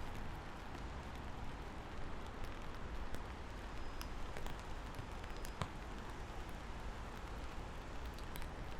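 Steady rain falling, an even hiss with scattered single drops ticking, over a low rumble.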